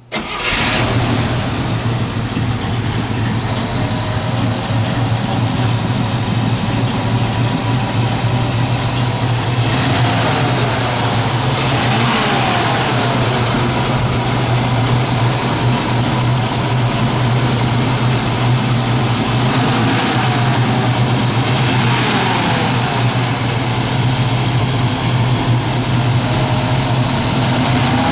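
1969 Chevrolet Camaro SS V8 engine starting up and catching at once, then running at a steady idle.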